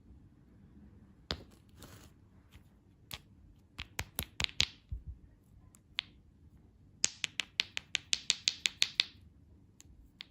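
Sharp, dry clicks, some single and some in quick runs: a short cluster about four seconds in, and a longer even run of about seven clicks a second from about seven to nine seconds in.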